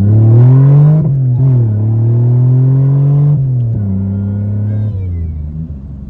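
Supercharged 3.8 L V6 of a Pontiac Fiero pulling hard: the engine pitch climbs, drops at a gear change about a second in and climbs again, then falls back a little after three seconds and runs on steadily at a lower pitch, fading near the end.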